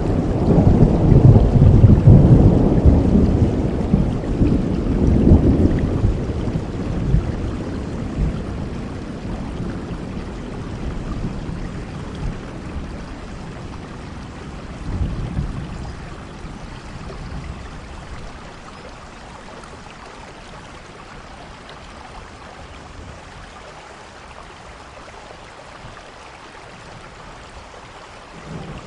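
Steady rain with thunder: a long, deep rumble at the start that dies away over about ten seconds, a weaker rumble about fifteen seconds in, then rain alone until a new rumble begins at the very end.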